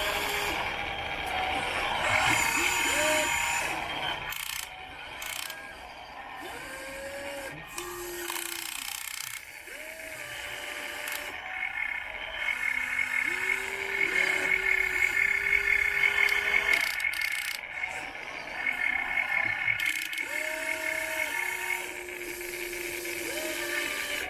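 Small electric motors of an RC excavator whining in repeated short runs, each rising in pitch, holding briefly, then dropping away. A steadier, higher whine runs through the middle stretch.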